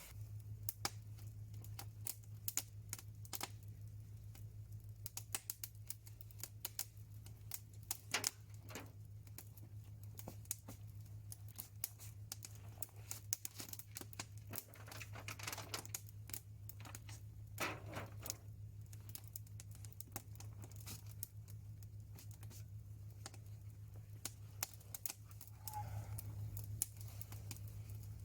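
Wood fire crackling, with irregular sharp snaps and pops, over a steady low hum.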